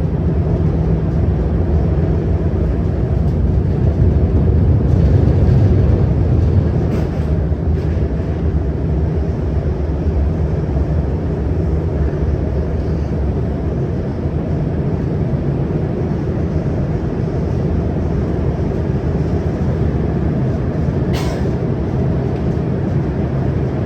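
Shenzhen Metro Line 13 CRRC Qingdao Sifang Type A electric train running between stations, heard on board: a steady low rumble that swells a little about four to seven seconds in, with a short sharp click near the end.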